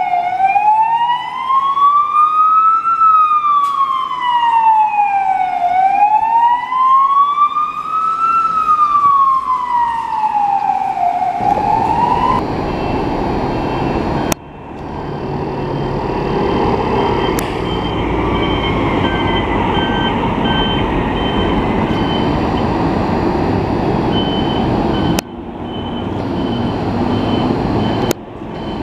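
Fire engine's electronic siren on a slow wail, rising and falling about every five to six seconds. About eleven seconds in it gives way to heavy engine and traffic rumble with only faint siren tones.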